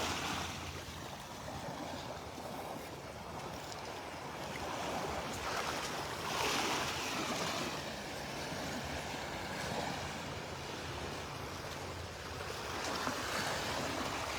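Gulf of Mexico surf washing onto a sandy beach in steady noise, swelling about six seconds in and again near the end.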